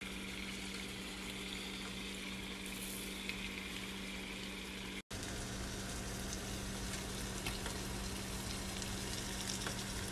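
Chicken pieces in a red spice masala frying in a pan: a steady sizzle with fine crackling, over a faint steady low hum. The sound drops out for an instant about five seconds in.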